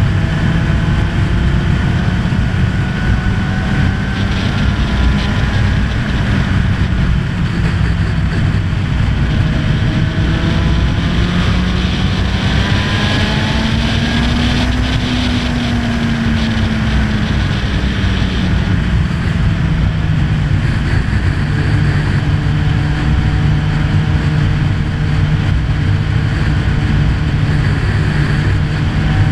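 Honda CB1000R's inline-four engine running at a steady cruise under heavy wind rush on the microphone. The engine note rises a little around halfway, then drops back and holds steady.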